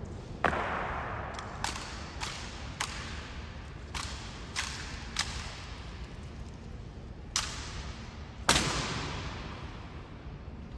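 Sharp claps and knocks of an honor guard's rifle drill: rifles slapped and caught, with rifle butts and boots striking the floor. There are about ten at irregular intervals, each ringing out in a large echoing hall, and the loudest comes near the end.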